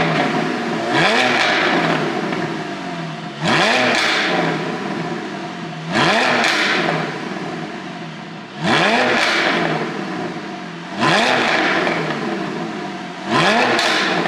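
Porsche 718 Boxster GTS 4.0's flat-six engine revved six times, about every two and a half seconds. Each rev climbs quickly and then falls away, with the tune's exhaust pops and crackles as the revs drop.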